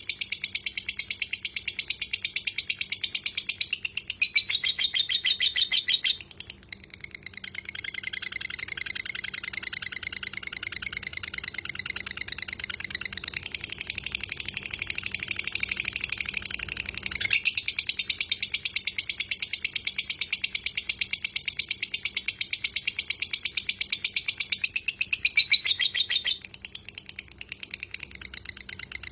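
Lovebird singing its long 'ngekek': a very rapid, unbroken chattering trill of high notes, held for many seconds, with short pauses about six and seventeen seconds in and a softer stretch near the end.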